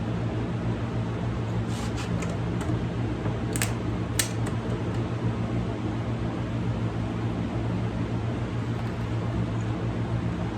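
Steady hum of a shop fan, with a few sharp clicks and taps about two to four seconds in.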